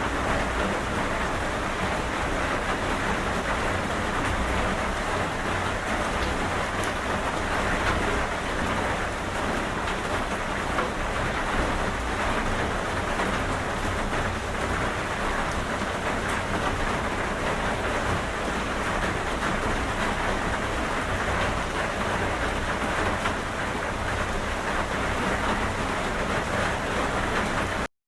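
Steady, dense rainfall pattering on surfaces. It cuts out to silence for a moment just before the end.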